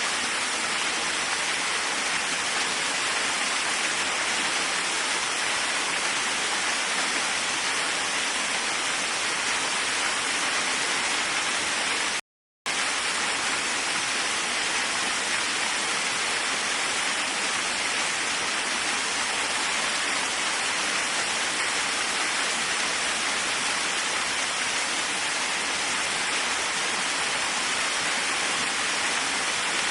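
Waterfall: a steady, even rush of falling water, brightest in the upper middle range. It cuts out completely for about half a second around twelve seconds in, then resumes unchanged.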